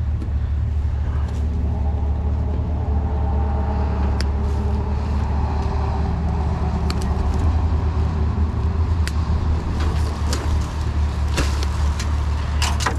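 A motor vehicle engine running at a steady idle, a constant low rumble. Scattered sharp clicks and rustles sound over it.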